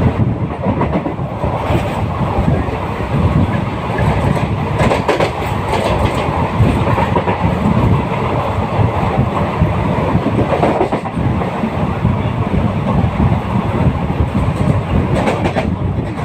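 Passenger train running along the rails: a steady loud rumble of wheels and carriages, with a few sharper clacks over rail joints.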